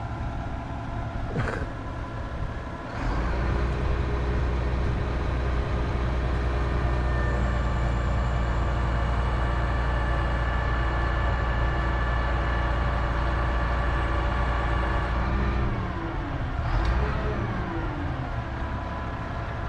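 Mobile crane's engine running under load during a lift. About 3 seconds in it revs up and holds steady high revs, then near the end it drops back, the pitch falling as it eases off.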